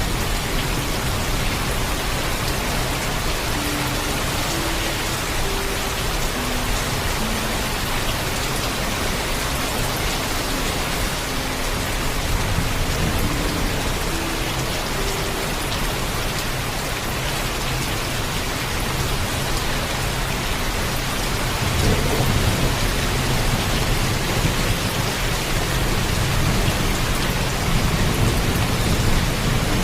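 Heavy rain falling steadily. A low rumble of thunder swells about two-thirds of the way through and grows again near the end.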